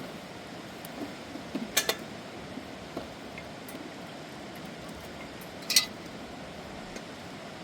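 Two sharp clinks with a brief ring, about two seconds and six seconds in, with a few fainter ticks, over a steady hiss.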